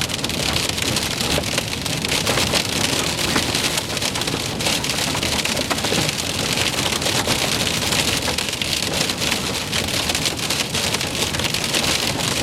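Heavy rain and hail beating down: a dense, steady patter of countless small hits.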